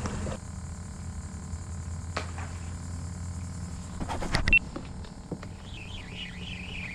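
A steady low hum, like a small motor running, with a quick cluster of sharp clicks and knocks about four seconds in, the loudest sound. A high wavering whistle comes in near the end.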